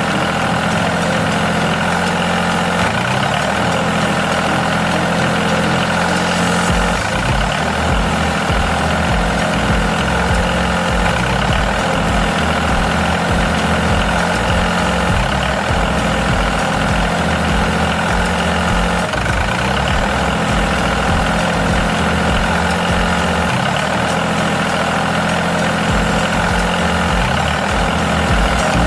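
An engine running steadily at idle, with an even tone and an irregular low thumping underneath.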